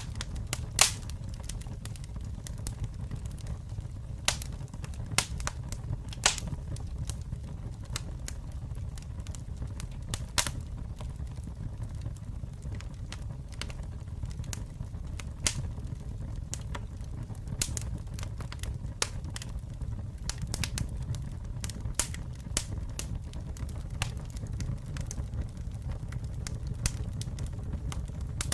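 Wood fire burning with a steady low rumble and irregular crackling, sharp pops and snaps of burning wood, a few louder pops in the first ten seconds.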